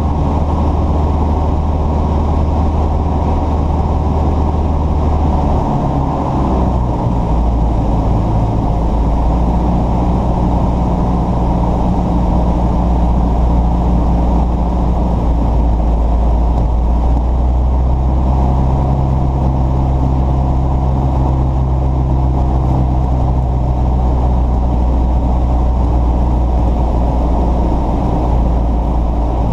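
An engine running steadily with a low hum, its pitch shifting about six seconds in and again at about eighteen seconds.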